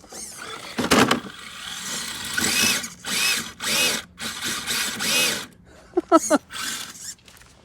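Axial SCX10 III RC crawler's electric motor and 3-gear transmission whining in short throttle bursts, about two a second, as the truck strains on a steep rock climb. A knock about a second in.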